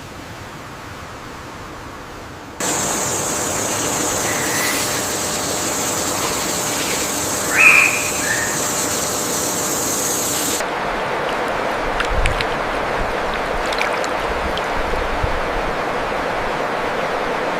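Steady outdoor nature ambience: an even rushing hiss that grows louder about two and a half seconds in. A high, steady hiss lies over it until about ten seconds in, with one short chirp just before the middle.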